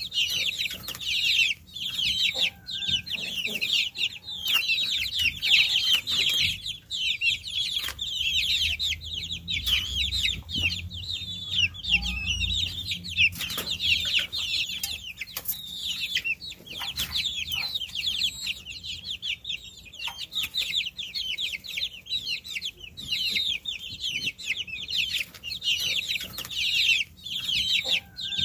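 A brood of baby chicks peeping continuously: a dense chorus of short, high chirps, many falling in pitch, overlapping without a break.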